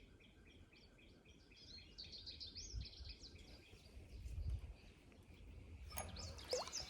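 A songbird singing a series of short, evenly repeated notes, about three a second, for the first few seconds, with more chirping near the end, over a low outdoor rumble.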